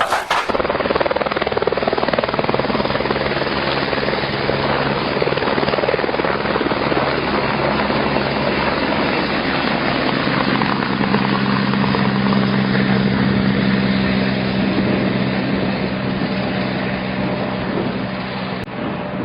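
Helicopter running steadily, its rotor noise and a steady low engine tone continuing with little change.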